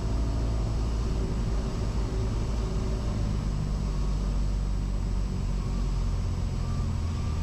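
Cessna 172's four-cylinder piston engine and propeller running at low power after landing, a steady low drone heard inside the cockpit, its note shifting slightly about three to four seconds in.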